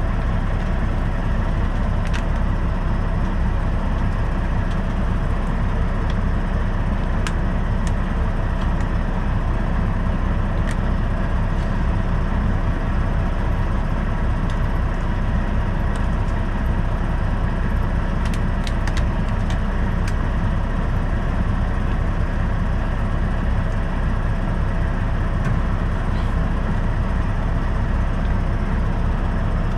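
Semi truck's diesel engine running steadily as a low, even rumble, with a few light clicks and taps over it.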